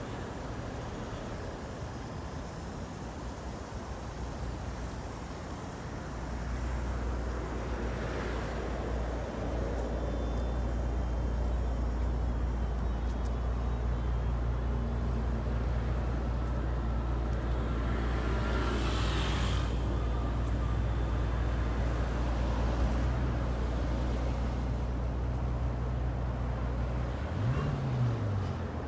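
Bentley convertible's engine idling steadily with a low hum, growing louder about six seconds in, with a brief rise and fall in engine pitch near the end.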